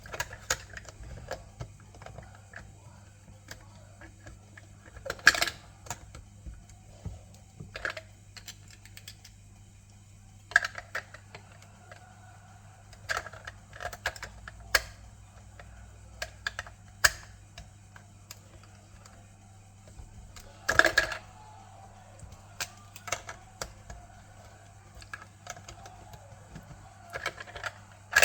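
Lego bricks being handled: irregular sharp plastic clicks and clatters, with a louder flurry about five seconds in and another about twenty-one seconds in, over a steady low hum.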